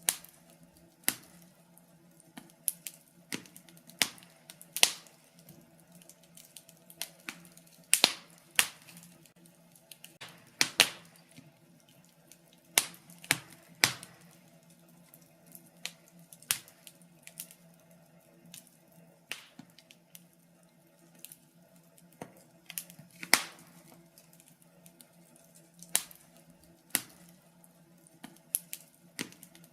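Wood fire in a fireplace crackling: irregular sharp pops and snaps, a few loud ones among many small ones, over a faint steady low hum.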